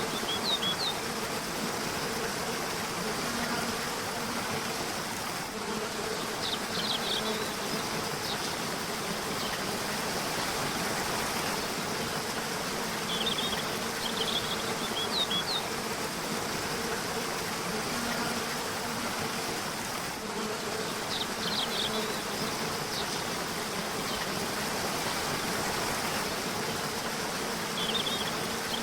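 River water rushing steadily, with short bursts of high bird chirps every several seconds and a low buzz that comes and goes.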